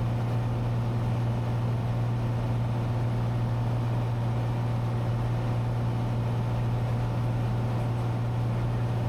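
Cessna 182T's six-cylinder engine and propeller droning steadily in cruise, heard inside the cabin as a constant low hum.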